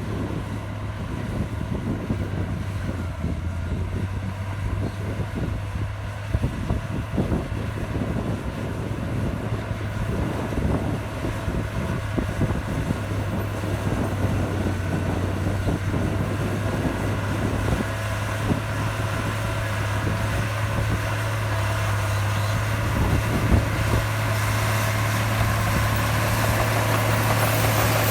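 Heavy diesel engine of earthmoving machinery running steadily, growing louder toward the end.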